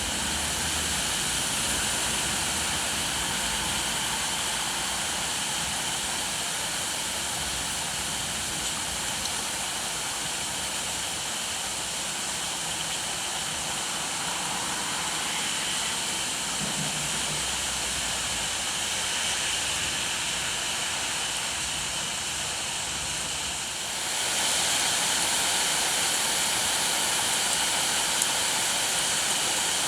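Steady heavy rain falling, an even rushing hiss that gets a little louder about 24 seconds in.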